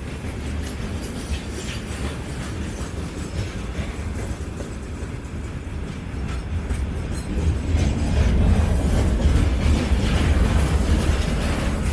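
Freight train passing, its wheels clattering over the rail joints over a steady rumble that grows louder about eight seconds in.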